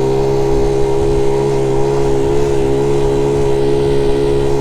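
Honda Z50 J1 monkey bike's small single-cylinder four-stroke engine running steadily at constant revs in its top gear of three, with wind buffeting the microphone. It runs cleanly with no misfire, which the rider puts down to the ignition coil.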